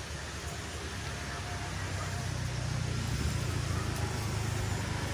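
A motor vehicle's engine running, a low rumble that grows steadily louder.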